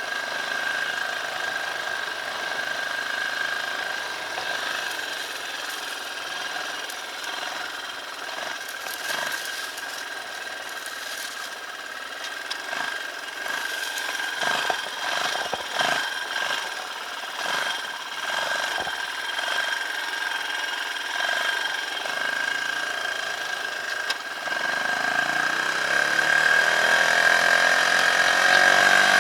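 Dirt bike engine running while riding, with scattered knocks and rattles through the middle. Near the end the engine revs climb and it gets louder.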